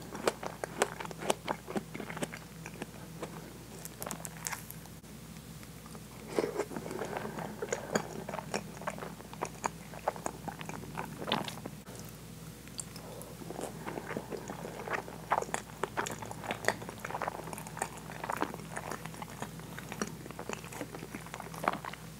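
Close-miked chewing of very soft, custard-soaked French toast with whipped cream, with many small mouth clicks throughout.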